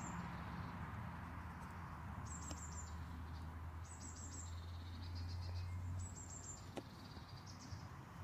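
A small songbird singing a short, high, fast trill that repeats about every two seconds, with softer lower chirps in between, over a low steady hum.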